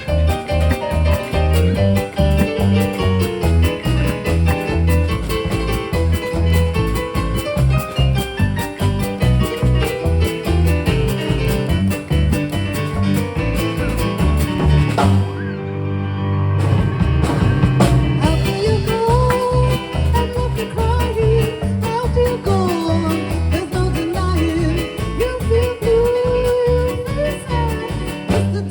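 A live band playing a swing-style jazz tune, recorded on a cell phone. About halfway through the treble drops out for a moment, then a wavering melody line carries the rest.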